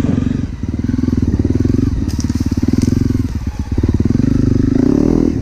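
Honda CRF250L's single-cylinder four-stroke engine running as the dirt bike is ridden, the throttle easing off briefly about half a second in and again a little past three seconds, then opened up with rising revs near the end.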